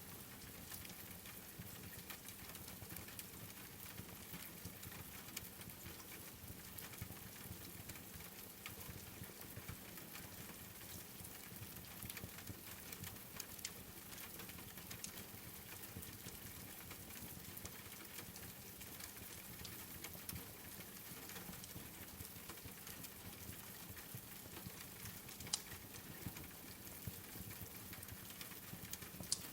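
Steady rain pattering together with a crackling wood fire: a soft even hiss scattered with small clicks, and two sharper pops near the end.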